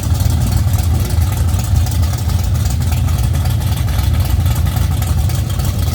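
Vehicle engine running at low speed with a deep, steady rumble.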